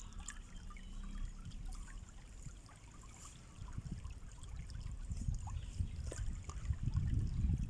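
Running water trickling and splashing along a stream, getting louder near the end.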